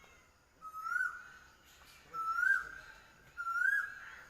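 A bird calling: a clear whistled note that rises and then drops off sharply, repeated three times at an even pace of about one every second and a bit.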